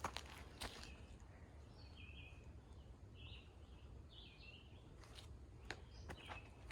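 Faint bird calls: several short chirps in the middle, over a quiet outdoor hush, with a few footsteps on the trail near the start and near the end.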